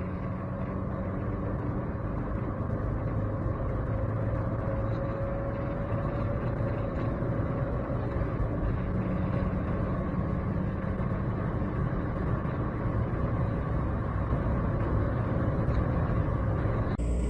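BMW E90-series 3 Series turbodiesel engine pulling under acceleration, a steady drone that slowly rises in pitch and loudness, then changes abruptly to another run just before the end.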